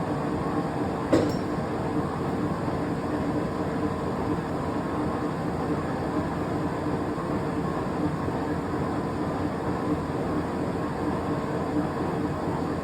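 Broadbent heavy-duty gap bed centre lathe running under power, a steady mechanical rumble from its headstock gearing with a few steady tones through it. A single sharp knock comes about a second in.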